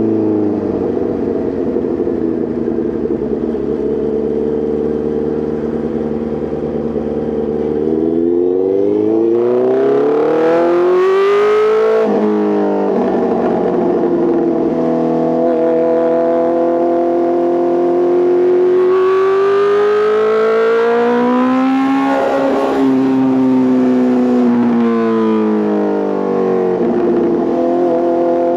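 Honda CBR650R's inline-four engine through an Arrow Pro Race titanium full exhaust, under way: it holds a steady note, then revs up, drops sharply at a gear change about twelve seconds in, and pulls up again more slowly. It eases off after about twenty-two seconds and settles steady near the end.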